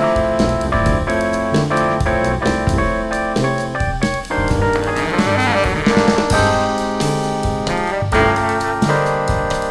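Jazz horn band playing: trumpets, baritone saxophone and tuba in held chords that change every half second or so, over keyboards and a drum kit with cymbals.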